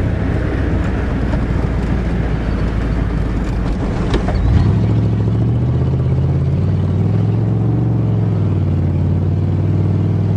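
A 1988 Chevrolet pickup truck's engine running steadily as the truck is driven, with a single sharp clunk about four seconds in, after which the engine note changes.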